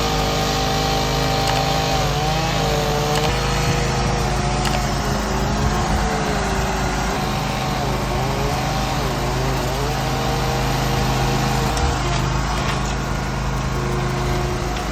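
An engine running steadily under load, with a higher whine over it that holds its pitch for a while and then wavers up and down.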